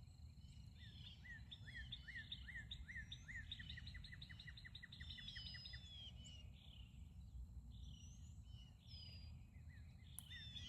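Faint birdsong: a fast run of short falling chirps, about four a second, for several seconds, with other birds calling higher up. A steady low rumble lies underneath.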